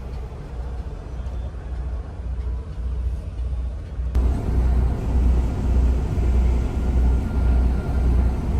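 Semi-truck's diesel engine running as a steady throbbing low rumble; about four seconds in the sound jumps suddenly to a louder, fuller road-and-engine noise.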